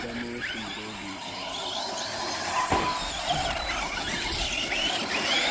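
Electric motors of RC cars whining as they rev up and down in short rising and falling sweeps, with a single knock about two and a half seconds in.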